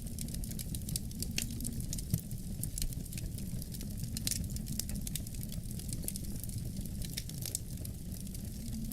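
Wood fire crackling with frequent small pops and snaps, over a steady low rumble of wind.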